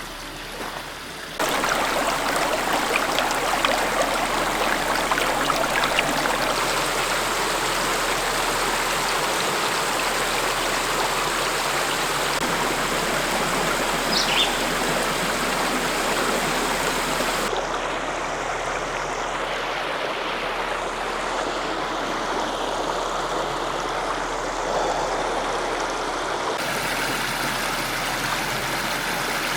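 Steady rush of a rocky creek, water running and splashing. It gets suddenly louder about a second and a half in, and turns duller past the middle.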